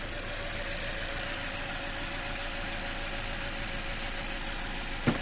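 Toyota Corolla four-cylinder petrol engine idling with a misfire, caused by an ignition coil that is dead or very weak. A single sharp click about five seconds in.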